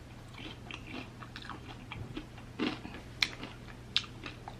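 Chewing and biting a crispy fried chicken wing: soft, scattered crunches, with two sharper crunches near the end.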